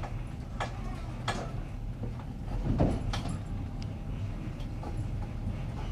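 Passenger train carriage running on jointed rail: a steady low rumble with several sharp clacks of the wheels over the rail joints, the loudest one near the middle.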